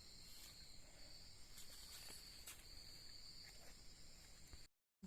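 Faint, steady high-pitched chirring of insects such as crickets, with a few faint ticks. It cuts to dead silence just before the end.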